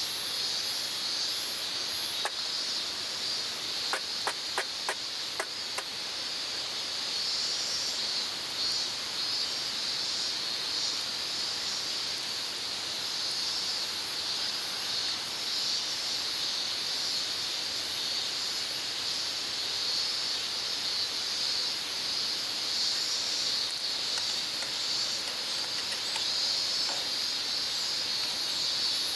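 Steady high-pitched insect chorus buzzing without a break, with a few light clicks about four to five and a half seconds in.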